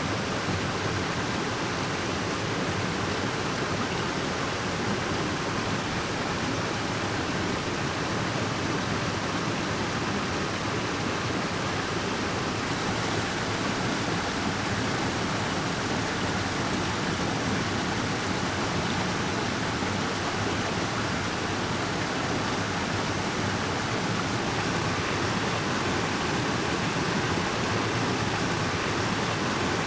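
Mountain stream water rushing, a steady even roar.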